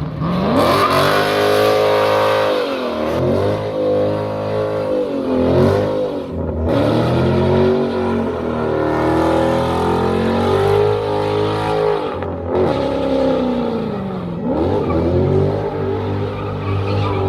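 A car engine revving hard as the car pulls away. Its pitch climbs and falls back again and again, about six times.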